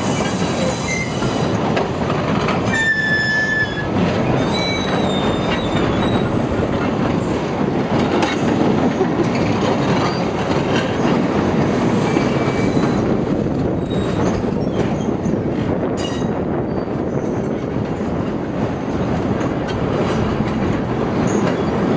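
Train running over a bridge: a steady rumble of wheels on the rails, with short high wheel squeals, the clearest about three seconds in.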